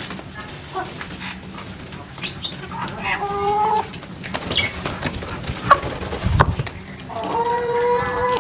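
Birds calling: scattered short calls and two long, level, drawn-out calls, one about three seconds in and one near the end. There is a low thump a little past six seconds.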